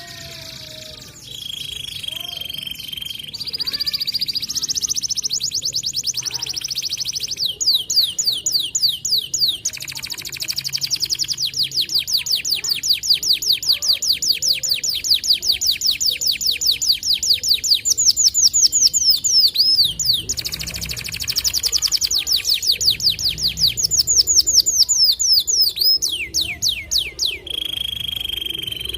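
White domestic canary singing a long, continuous song: long runs of rapid, evenly repeated falling notes, broken by a held whistled note about a second in and another near the end.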